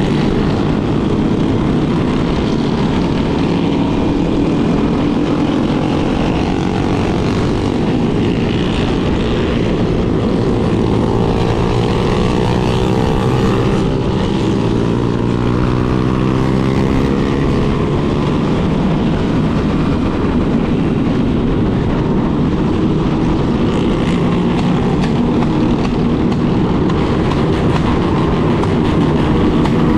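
Motorcycle engines running on the move in a large group ride, with a steady low rumble. Engine pitch glides up and down several times around the middle.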